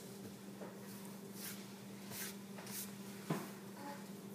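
Faint handling sounds in a quiet room: three soft brushing swishes and a small sharp knock about three seconds in, over a steady low hum.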